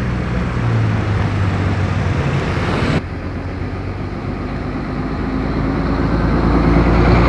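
Airbus A321neo jet engines running at taxi power as the airliner backtracks along the runway: a steady low hum under a rushing noise, changing abruptly about three seconds in and growing louder over the last few seconds.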